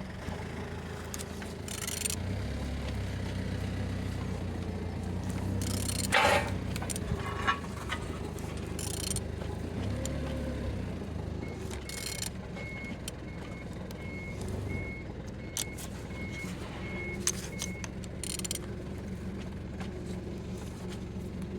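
Steady low rumble of a vehicle engine running, with a reversing beeper sounding a string of short, evenly spaced beeps through the middle, and scattered brief clicks and knocks.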